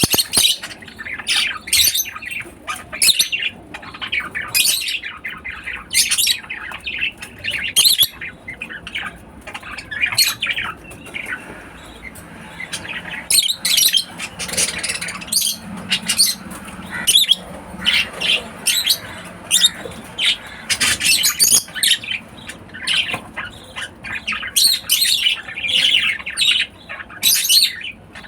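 African lovebirds calling: a steady stream of short, sharp, high-pitched chirps and squawks, several a second at times.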